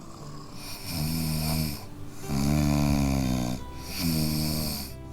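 Snoring: three long, drawn-out snores, each about a second or more, with breaths in between.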